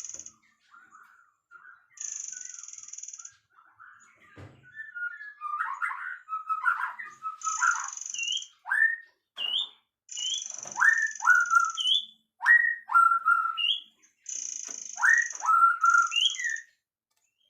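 Songbird singing: clear whistled notes that sweep up and then drop, mixed with bursts of high, buzzing trill about a second long.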